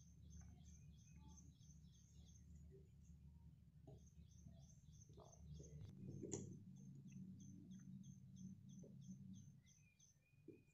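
Faint, quick series of high chirps from a small bird, about four a second, pausing briefly once, over a low steady hum. About six seconds in, a single click comes from the plastic phone clamp being handled on a flexible tripod.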